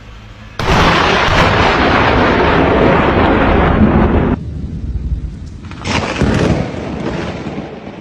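Close, very loud thunder: a crash that starts suddenly about half a second in and runs for nearly four seconds before cutting off, then a second crack near six seconds that trails off into rumbling.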